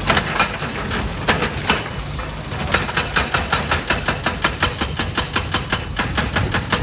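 Heavy diesel machinery running, with scattered sharp knocks that settle about three seconds in into a fast, even knocking of about four to five a second over a steady low rumble.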